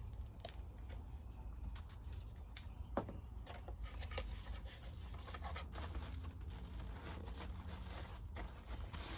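Scattered light clicks, taps and rustles of craft materials being handled, over a steady low hum.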